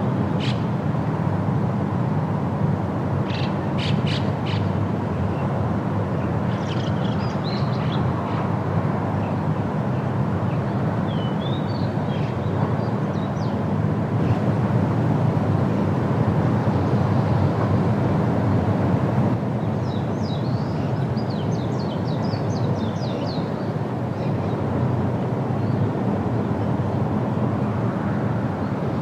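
Steady wind rushing through forest trees, with birds chirping and trilling now and then above it: short bursts about three seconds in, around seven to thirteen seconds, and a longer run of chirps around twenty seconds in.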